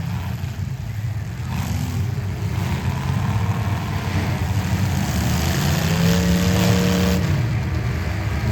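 Demolition derby car engines running in a low, uneven rumble; about five and a half seconds in, one engine revs up, holds for about a second and a half, then drops back.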